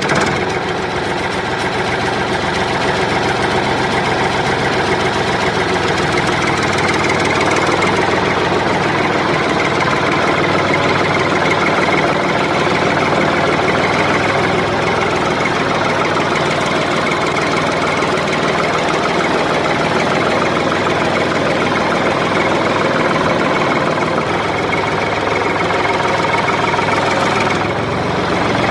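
Engine running steadily at an even idle, with no revving or breaks.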